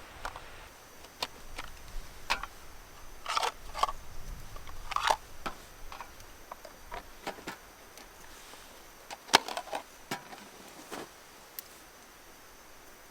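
Irregular light clicks, taps and brief rustles of small objects being handled in a small enclosed space, busiest in the first half, with one sharper click about nine seconds in.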